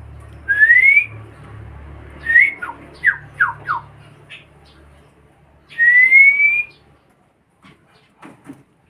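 White-rumped shama whistling: two loud rising whistles, one about half a second in and one about six seconds in, with a quick run of short falling notes between them.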